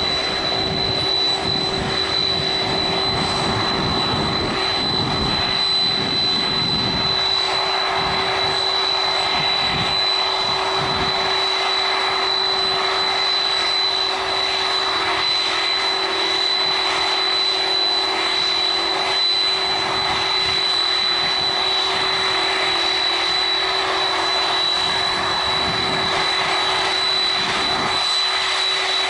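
Boeing 767-300 jet engines at takeoff power: a steady, loud jet noise carrying a high, constant whine and a lower steady hum. Gusty low rumbles come and go, mostly in the first half.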